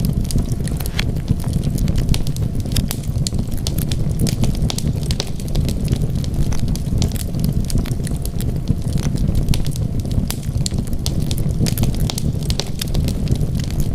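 Wood fire burning in a fireplace: a steady low rumble of flames with frequent irregular crackles and pops of burning wood.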